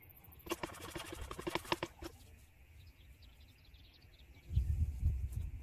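A bird gives a rapid chattering call for about a second and a half. Near the end comes a low rumble, the loudest sound here.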